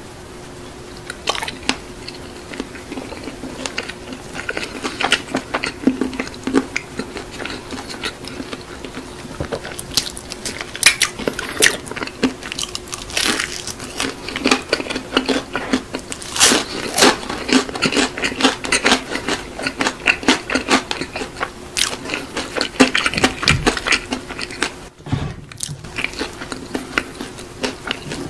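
Close-miked biting and chewing of crispy seasoned fried chicken (BHC Bburinkle), a run of many sharp, crisp crunches. A steady low hum runs underneath.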